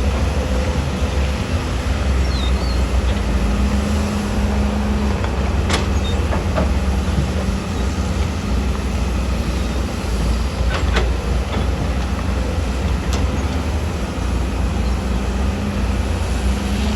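Heavy diesel earthmoving machinery running steadily with a deep rumble and a steady hum, with a few faint clicks.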